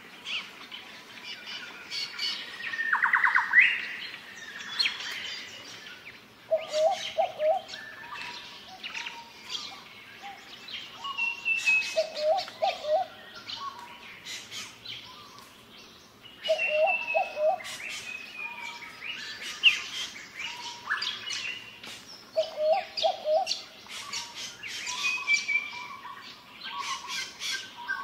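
Several wild birds calling and singing: many quick chirps and whistles, some sliding down in pitch, with a short, low call of three or four notes repeating about every five seconds.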